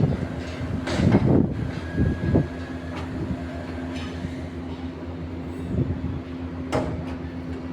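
A machine running steadily with a low hum. A few clatters and knocks sound over it about one, two and seven seconds in.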